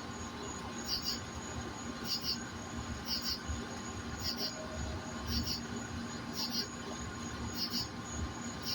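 An insect chirping steadily in short, high double chirps, about one a second.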